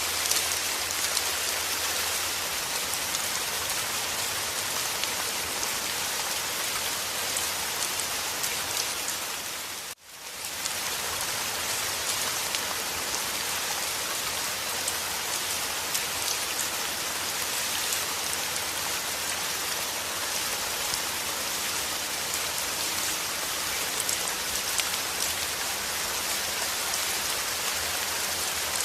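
Rain falling steadily in a dense, even patter. About ten seconds in it briefly fades almost to nothing and swells straight back.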